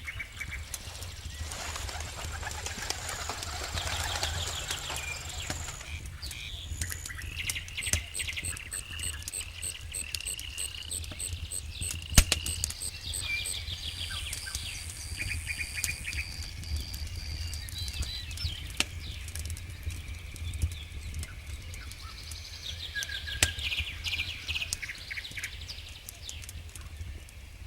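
Wood campfire crackling with scattered sharp pops, one louder pop about twelve seconds in. Birds sing repeated chirps and high trills in the background.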